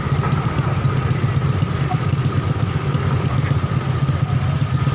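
A vehicle engine running steadily with a deep, even rumble.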